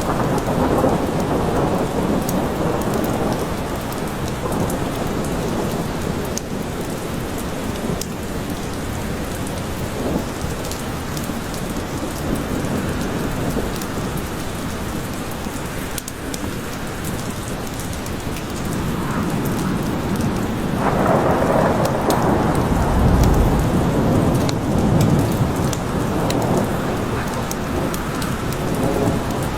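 Steady rain falling in a thunderstorm. Thunder rumbles near the start and again for several seconds in the second half, deepest about two-thirds of the way through.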